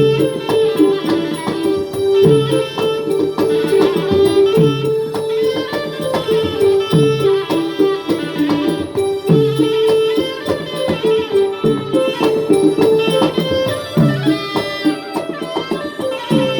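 Traditional southern Thai Nora (Manora) ensemble music: a held, stepping melody line over low drum strokes that fall in pitch, recurring about every two seconds, with light clattering percussion throughout.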